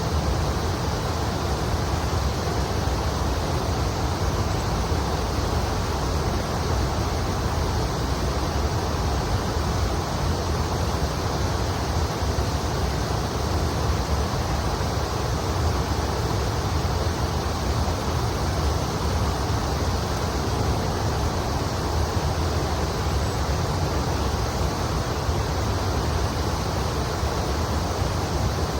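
Steady rush of the Kamo River's flowing water, with a low rumble underneath.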